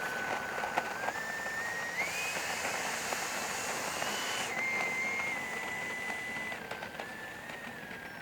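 The 90 mm electric ducted fan of a Freewing J-10 RC jet whining in flight. Its pitch steps up with the throttle, with a rush of air between about two and four and a half seconds in, then steps back down and drops away at the very end.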